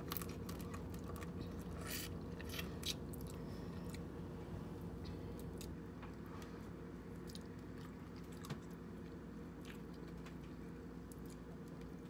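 King crab legs being cracked and eaten close to the microphone: sharp shell crunches and clicks, packed together in the first few seconds and sparser after, with chewing, over a steady low hum.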